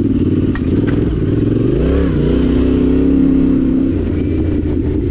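Yamaha Ténéré 700's parallel-twin engine running while under way. The revs rise about two seconds in and then hold steady.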